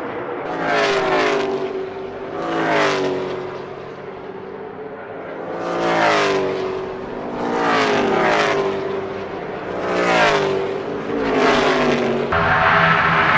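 NASCAR Gen 6 stock cars with V8 engines passing one after another at speed, about six passes, each engine note dropping in pitch as the car goes by. Near the end it cuts abruptly to a steady, louder roar.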